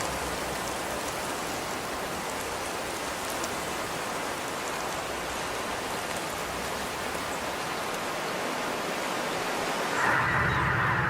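Steady rain falling, an even hiss with no distinct drops standing out. About ten seconds in it gives way abruptly to a flock of geese honking, louder than the rain.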